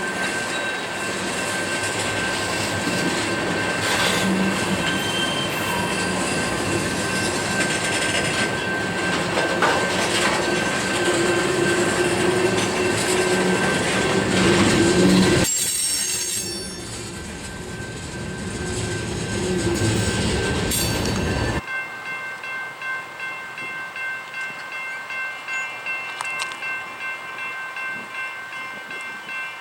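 Freight train cars rolling past, with steel wheels squealing in steady high tones. After a sudden cut about two-thirds of the way through, another train runs more quietly with a rhythmic clack of wheels over rail joints about once a second, the squeal still ringing.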